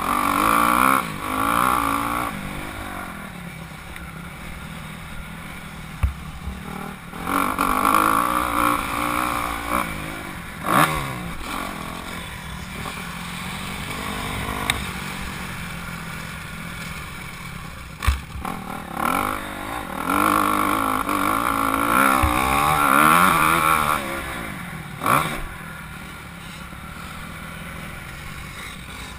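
Honda CRF250R motocross bike's single-cylinder four-stroke engine revving up and down, its pitch rising and falling with the throttle. It swells loud several times as the bike comes near and drops back between, with a few short sharp knocks.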